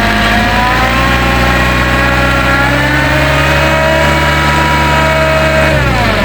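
Truck engine held at high revs, its pitch creeping slowly upward, then dropping back down near the end as the throttle is released.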